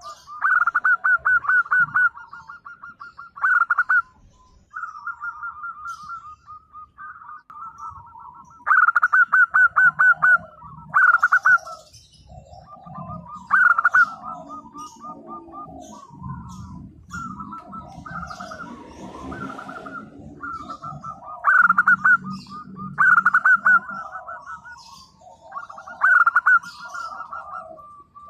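Zebra doves (perkutut) cooing: repeated phrases of rapid, staccato coo notes, with loud bursts every couple of seconds. A low background rumble runs under the middle part.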